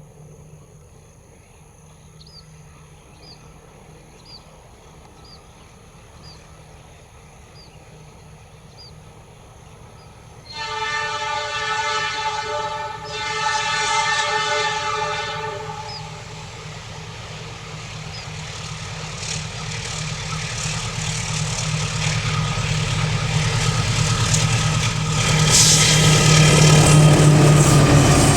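Diesel locomotive approaching: its low engine drone grows steadily. About ten seconds in it sounds its air horn in two long blasts. The engine and train noise then build to their loudest near the end as it draws close.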